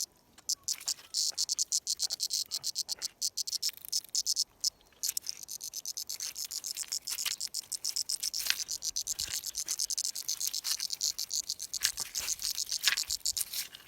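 Fishing reel clicking rapidly, a fast steady run of sharp ticks that grows denser after the first few seconds.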